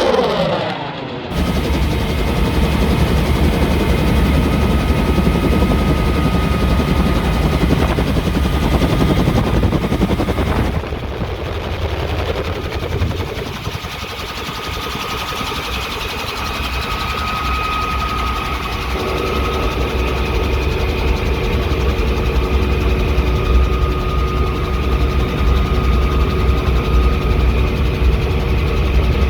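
Aircraft engines running loud and steady, with a low rumble and a steady whine on top, the sound changing abruptly twice as the shots change.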